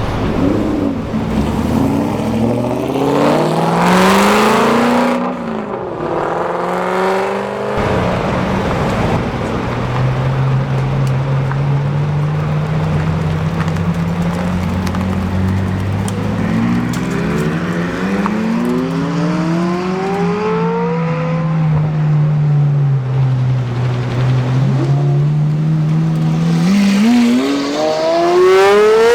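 Sports car engines accelerating hard, with climbs in engine pitch a few seconds in, about midway, and a steep one near the end. Between these, engines run steadily at lower revs.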